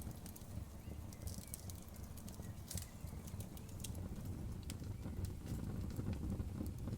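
Outdoor wood bonfire crackling: irregular sharp pops and snaps over a low steady rumble, with one louder crack a little under three seconds in.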